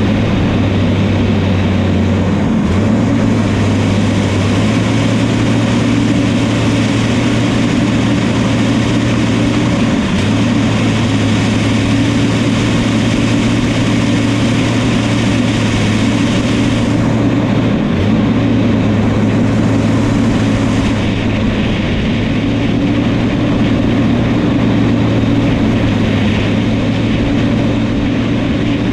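New Holland crawler bulldozer's diesel engine running steadily under working load, a loud constant drone whose tone shifts briefly a few times.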